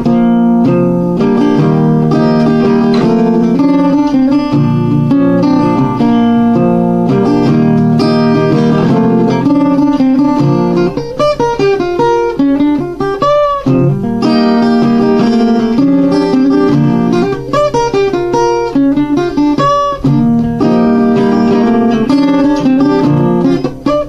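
Instrumental music led by acoustic guitar, plucked and strummed, with notes bending in pitch in places and no singing.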